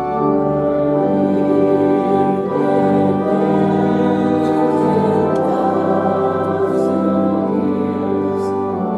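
Hymn music: voices singing over held organ chords at a steady level.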